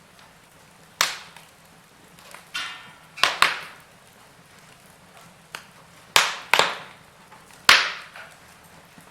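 Wood fire in a fireplace crackling, with several sharp pops from the burning logs over a faint steady hiss; the loudest pop comes near the end.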